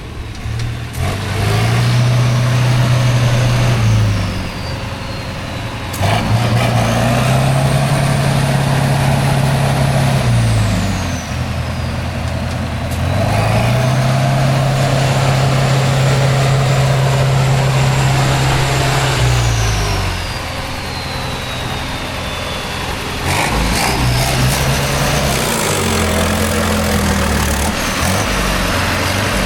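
Heavy off-road competition truck's diesel engine revving up hard, holding high revs for several seconds and dropping back, four times over, with a high whistle that rises and falls with the revs.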